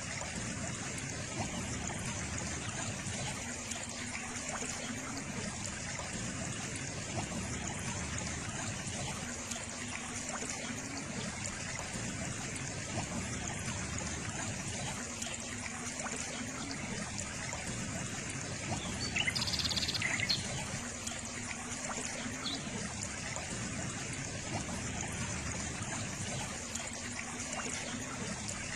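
Water trickling steadily, with a low hum that comes back about every six seconds and rises at the end of each. A brief, higher-pitched sound stands out about two-thirds of the way through.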